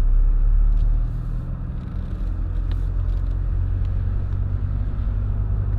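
Car engine running, heard from inside the cabin: a steady low rumble that drops slightly about a second in.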